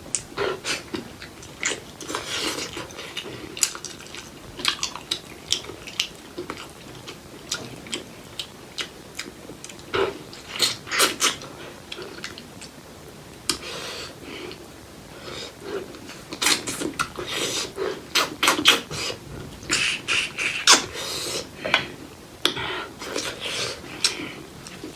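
Close-miked eating of spicy pork leg curry: wet chewing, smacking and sucking on the meat and skin of the trotter, with irregular clicks and crackles that come in clusters.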